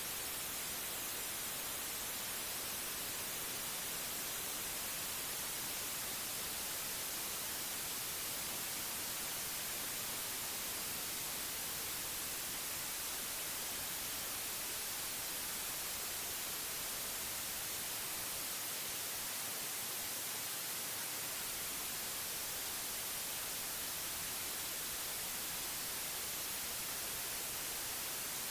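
Synthetic white noise: a steady, even hiss with no changes.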